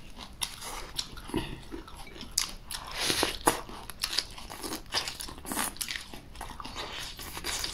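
Biting and chewing a jianbing, a thin wheat pancake rolled around raw scallion and fried sauce, with irregular short crunchy clicks as it is bitten and chewed.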